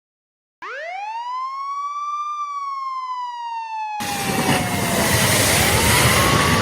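A wailing siren starts abruptly, rises, holds, then slowly falls and rises again. About four seconds in, a loud, dense rumbling noise joins it and masks it.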